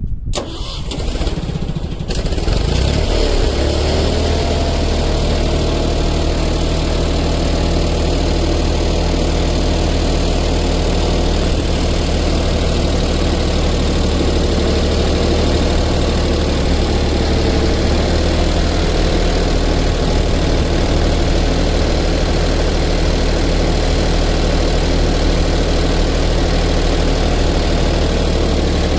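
Loader tractor's engine cranking and catching within about two seconds, then idling steadily.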